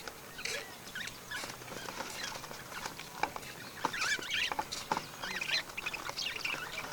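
Birds calling in many short, high chirps and squeaks, some sliding up and down in pitch, busiest in the second half.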